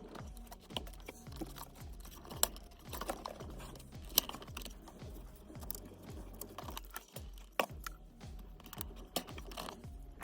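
Scattered light clicks and taps from hand work on plastic car parts, such as fitting a washer pump and clips, over faint background music.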